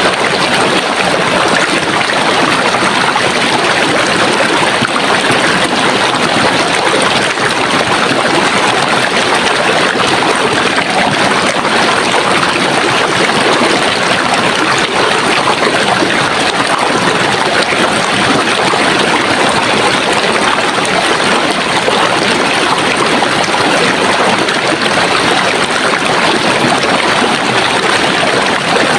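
Running water of a stream, flowing steadily in an even, unbroken rush.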